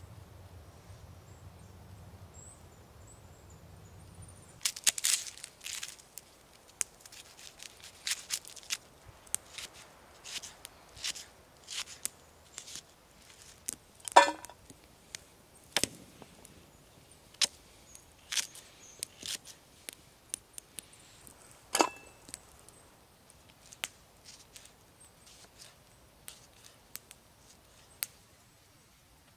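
Spruce-wood campfire crackling: irregular sharp pops and snaps, a few of them louder with a short ringing hiss. A faint low hum is heard at the start and stops about four seconds in.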